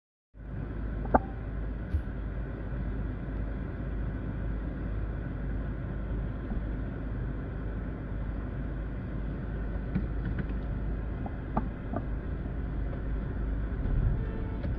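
Car on the move, heard from inside the cabin: a steady low engine and road rumble. A sharp click comes about a second in, with a few lighter knocks later on.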